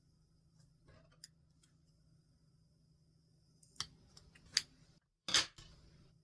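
Stationery handling on a desk: a few light clicks and taps, then a brief louder paper rustle about five seconds in.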